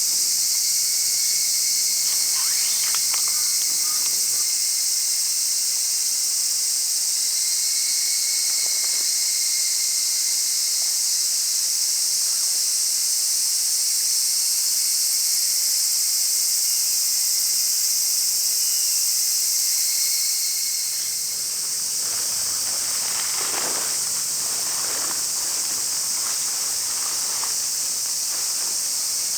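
Steady, high-pitched chorus of summer insects buzzing without a break, with a few short fainter sounds early on and about three-quarters of the way through.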